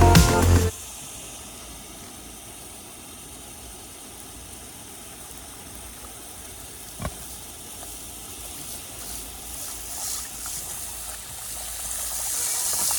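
Background music cuts off just under a second in, leaving a faint outdoor hiss with a single sharp click about seven seconds in; the high hiss grows louder toward the end.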